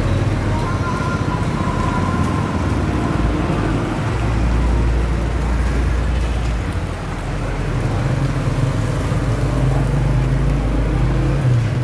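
Street traffic noise: motor vehicles running and passing, with a steady low rumble.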